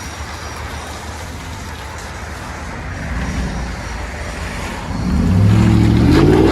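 Car engine exhaust through an 11-inch Magnaflow muffler, idling steadily, then revving up about five seconds in with its pitch rising and the sound getting louder.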